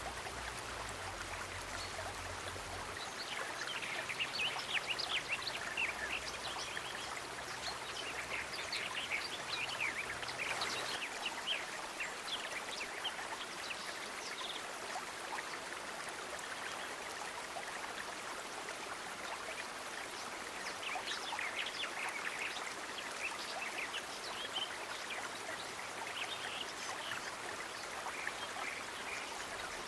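Running-water nature ambience, a steady hiss of flowing or trickling water, with two spells of many short high-pitched ticks.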